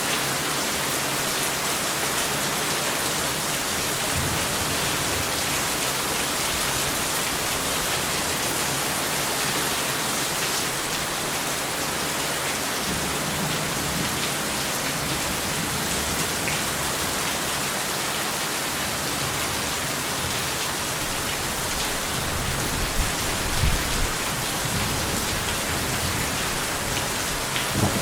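Steady, heavy rain falling as an even hiss. Low rumbles of thunder come and go in the middle and toward the end, the loudest about 23 seconds in.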